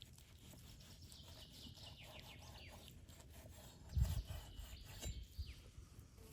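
Small birds chirping in a run of quick, high, falling notes, with a low thump about four seconds in and a few softer knocks after it.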